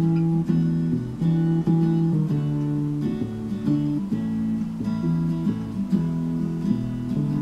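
Acoustic guitar strumming chords that change every second or so: the instrumental intro of a karaoke backing track, before the vocal comes in.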